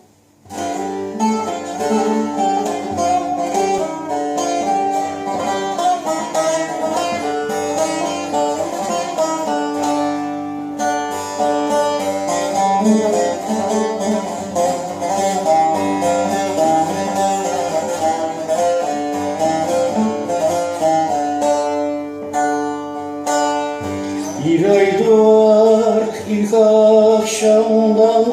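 Turkish folk song: an instrumental introduction led by plucked string instruments. A voice begins singing near the end.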